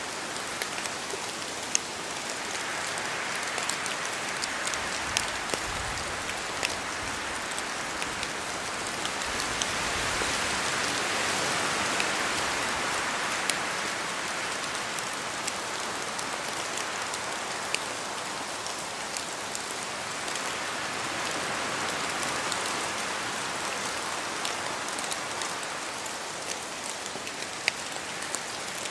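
Steady rain falling through forest trees, with scattered sharp drops and slow swells that rise and fall every several seconds, loudest about ten to fourteen seconds in, as the wind moves through the leaves.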